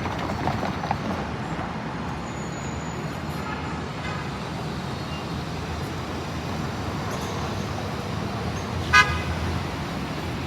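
Steady vehicle rumble with one short, loud horn toot about nine seconds in, and a fainter toot around four seconds in.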